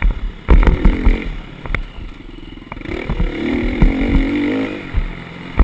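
Motocross dirt bike engine running under throttle, its tone strongest a few seconds in, among repeated sudden thumps and clatter.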